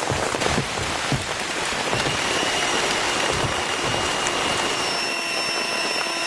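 Heavy rain falling steadily, with individual drops striking close by. A faint, thin, high steady tone joins in about two seconds in.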